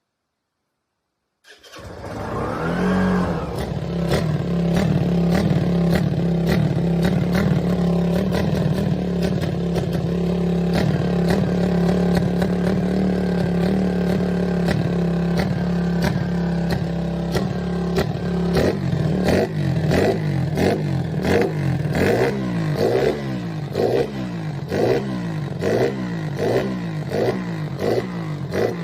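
Motorcycle engine starting up about a second and a half in, settling into a steady idle, then revved in quick repeated blips, about one a second, over the last ten seconds.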